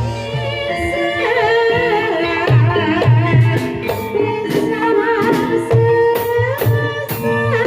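Javanese gamelan music for a kuda kepang (ebeg) dance: hand drums and gong-chime tones under a wavering, ornamented melody line, with bright metallic strokes near the end.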